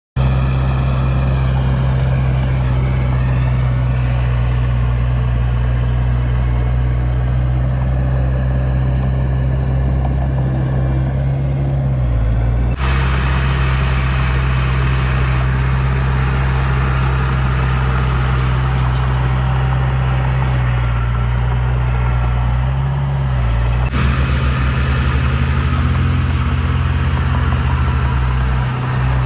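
Heavy diesel engine of earthmoving machinery running steadily under load. Its pitch dips briefly about twelve seconds in and again near twenty-three seconds, and the sound changes abruptly twice.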